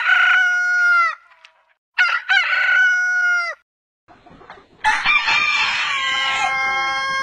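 Rooster crowing three times: two crows of about a second and a half each, then after a pause a third crow with a long held final note that is still going at the end.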